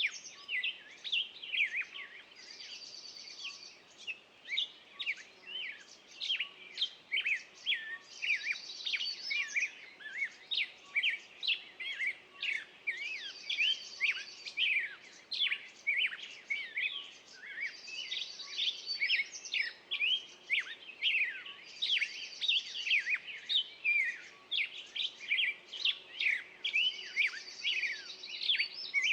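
Songbirds chirping and singing: a dense stream of quick, high chirps. A rapid high trill, about a second long, comes back every four to five seconds.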